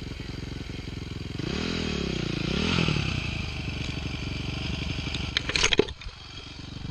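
Dirt bike engine running with a steady low putter, revving down and back up from about a second and a half in. Near the end comes a short burst of clattering and scraping.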